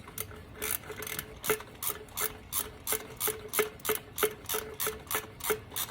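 Socket ratchet with a 13 mm socket on a 6-inch extension clicking in a steady rhythm, about three clicks a second, as it works a thermostat housing bolt on a 5.7 Hemi.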